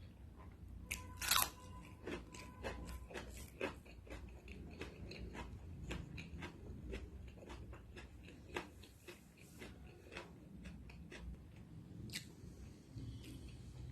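A person biting and chewing food close to the microphone: a run of irregular short, sharp mouth and food clicks, with one louder, sharper click about a second and a half in.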